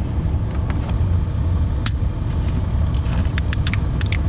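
Plow truck engine idling with a steady low rumble, with scattered sharp clicks, one about two seconds in and several near the end.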